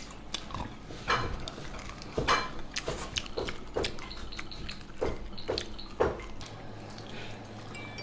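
Several people biting and gnawing meat off lamb chop bones: wet smacking, slurping mouth sounds, a smack every half second to second, thinning out over the last couple of seconds.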